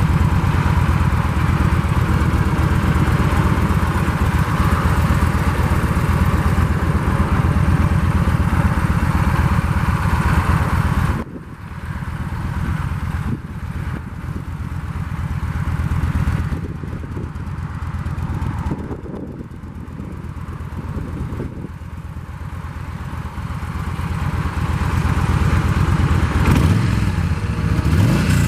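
2015 Yamaha V Star 1300's V-twin engine running through its stock exhaust. It runs loud and steady for about the first eleven seconds, drops off suddenly, then gradually grows louder again toward the end.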